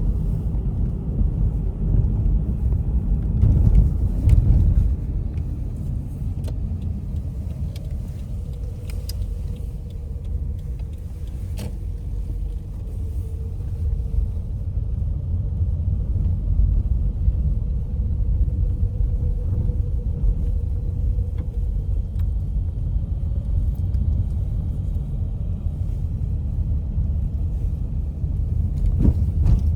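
A car driving, giving a steady low rumble of road and engine noise, with a faint steady hum through the middle and a few light clicks.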